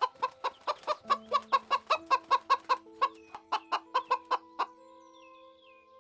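Chicken clucking in a rapid, even series of short calls, about five a second, that stops about three-quarters of the way through, over calm music with sustained notes.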